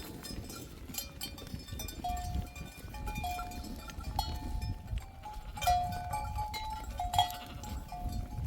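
Bells on a flock of sheep and goats clanking and ringing irregularly as the animals move, with scattered clicks and clatter.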